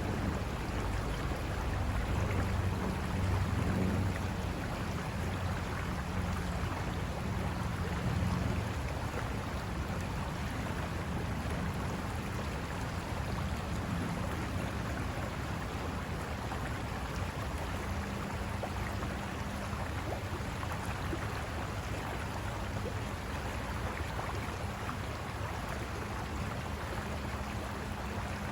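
River water rushing and splashing over rocks, a steady continuous rush.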